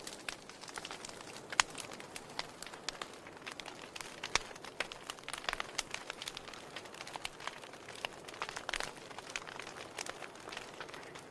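Wood fire burning in a fireplace, logs crackling and popping at irregular intervals over a soft hiss, with one sharp pop about a second and a half in.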